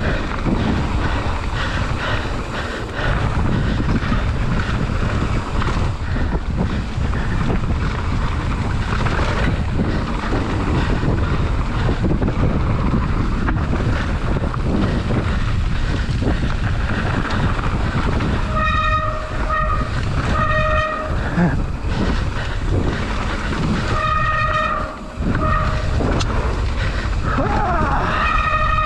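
Mountain bike descending fast over a rough trail: steady wind rush and tyre and frame rattle. About two-thirds of the way through, the disc brakes start to squeal in repeated bursts of a steady high-pitched tone, a sign of the brakes heating up.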